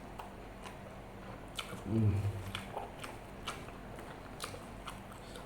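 Close-up chewing and wet mouth clicks of someone eating martabak Mesir mixed with rice and curry sauce. A brief low hum comes about two seconds in.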